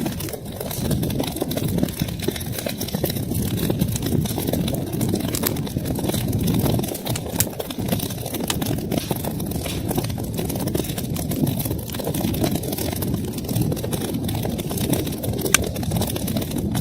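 Wood fire crackling in a fireplace: a steady low rumble of burning with many small sharp pops, one louder pop near the end.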